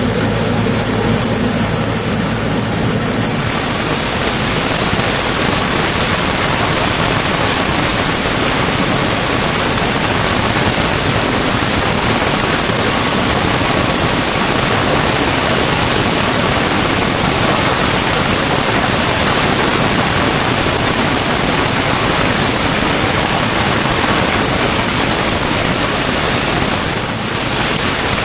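Sawmill running: a low engine hum with evenly spaced tones for about three seconds, then a loud, steady rushing noise that covers it and eases briefly near the end.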